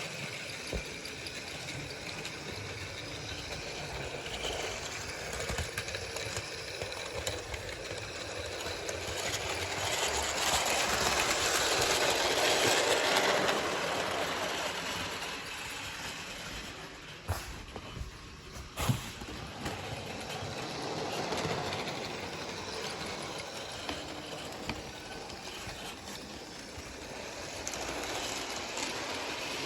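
A Bachmann electric model train, Edward pulling a string of trucks, rolls along the track with the whir of its motor and the rattle of wheels on rail. The sound swells to its loudest a third of the way in, as if passing close by, then fades back. Two sharp clicks come a little past the middle.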